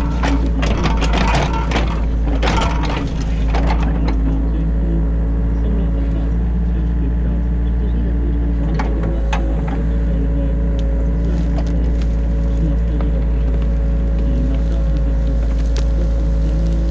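New Holland E50.2 mini excavator heard from inside the cab, its engine and hydraulics working steadily while the bucket digs out the ditch. Clatter and scraping of the bucket fill the first few seconds, then the engine drone runs on with a few scattered knocks.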